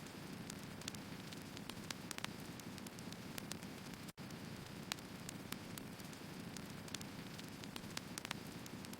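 Wood fire burning: a steady low hiss with frequent small crackles and pops from the burning logs. The sound cuts out for an instant about four seconds in.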